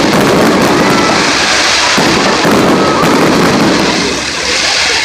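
Fireworks going off in rapid succession, a dense, unbroken crackling barrage mixed with bangs from shells bursting close overhead.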